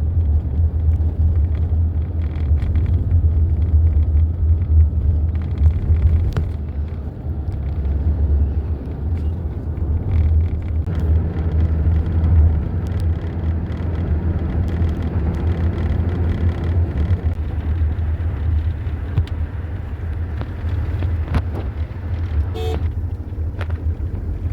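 A moving car's engine and road noise: a steady low rumble.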